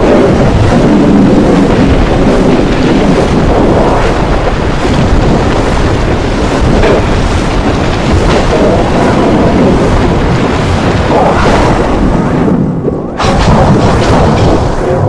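Loud, continuous rumbling and booming noise, with a brief dip near the end before it comes back.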